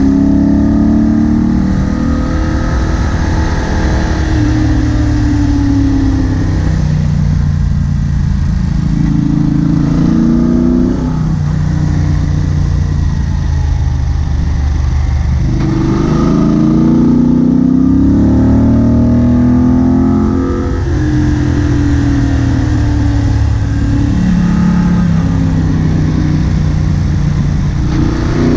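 Moto Guzzi Bellagio's air-cooled transverse V-twin engine heard from the rider's seat, accelerating and easing off over and over, its pitch climbing and dropping back several times. The rush of riding wind runs underneath.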